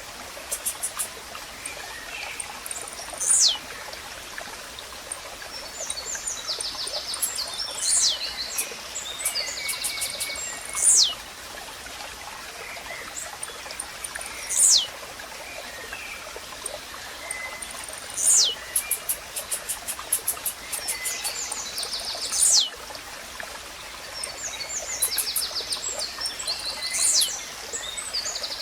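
Blue-black grassquit (tizil) repeating its short song, a sharp note that sweeps steeply down in pitch, about every three to four seconds. Around it other small birds give rapid chirps and trills over a steady trickle of running water.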